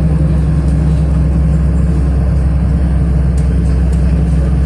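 City bus running between stops, heard from inside the passenger cabin: a steady low engine drone with road noise.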